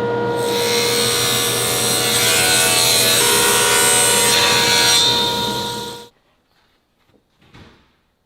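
Woodworking power tool running with a steady motor tone, then cutting into wood from about half a second in with a loud, hissing noise. The sound stops abruptly about six seconds in, leaving only a few faint knocks.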